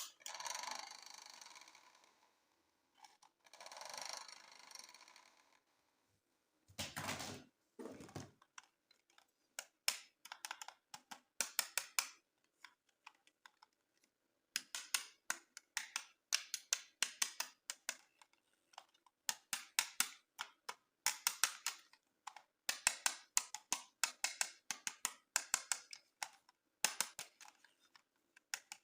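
Handling of plastic toys and packaging: two spells of soft rustling, two louder scrapes, then long runs of rapid, close-set plastic clicks in quick clusters.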